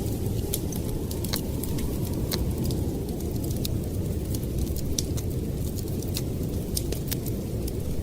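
Wood fire crackling with frequent sharp pops over a steady, low rumble of storm wind.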